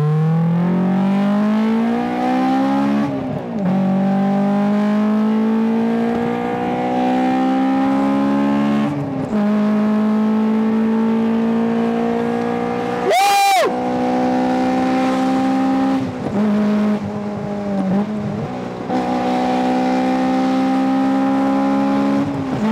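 Honda S2000's four-cylinder VTEC engine pulling hard under acceleration, its pitch climbing steadily in each gear and dropping back at several upshifts. A brief loud burst about thirteen seconds in.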